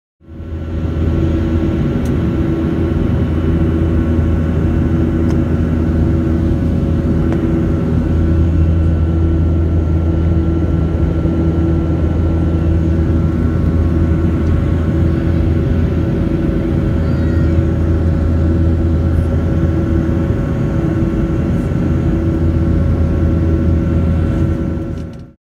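Jet airliner engine noise heard inside the cabin: a loud, steady low hum with several steady tones over it.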